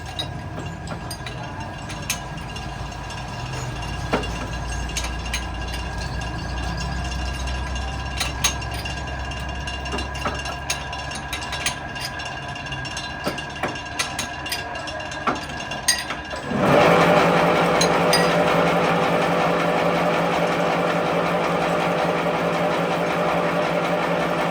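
Workshop machinery running steadily, with scattered metallic clicks and clinks. About 16 seconds in, a louder steady machine sound starts suddenly and carries on.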